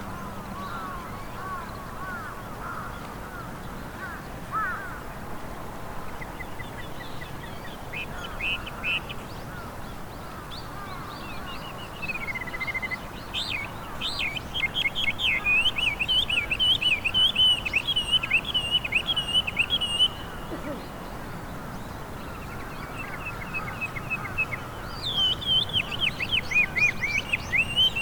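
Chinese hwamei singing its loud, varied song: quieter gliding notes at first, then about halfway through a fast run of loud, repeated whistled phrases lasting several seconds. After a short pause, another loud run comes near the end.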